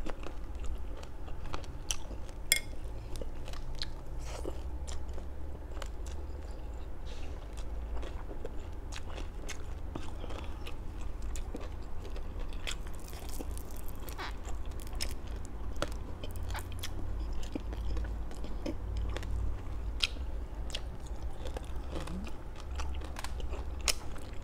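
Close-miked chewing of crispy fried food: a person biting and chewing, with many small crunches and clicks scattered throughout, over a low rumble.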